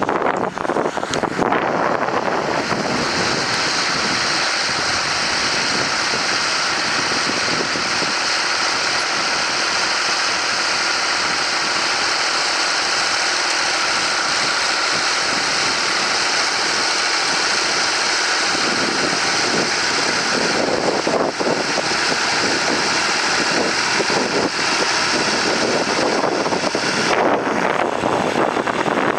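Massey Ferguson 135 tractor engine running steadily.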